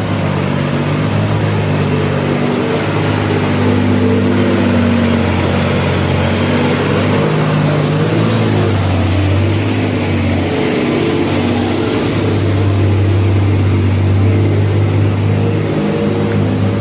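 Heavy container truck's diesel engine running, a steady low drone that dips and recovers a couple of times.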